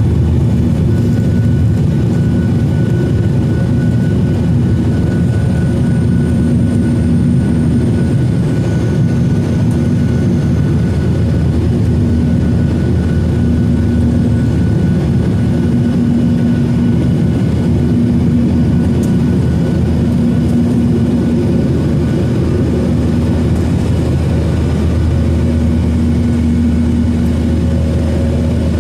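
Steady, loud cabin noise of a Boeing 737-900ER with its CFM56-7B jet engines running, a dense rumble of engine and airflow with a constant low hum.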